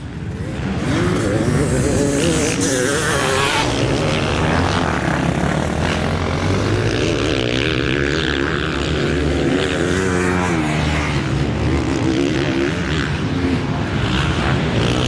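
Several motocross bikes' engines revving at racing speed, their pitch rising and falling over one another as the riders work the throttle around the track.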